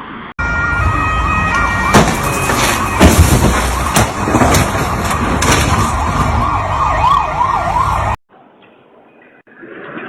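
Emergency vehicle siren sounding in quick rising-and-falling sweeps, with several loud bangs over it. It cuts off suddenly about eight seconds in.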